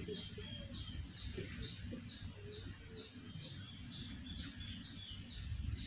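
A bird chirping faintly in the background: a short falling chirp repeated evenly, about three times a second.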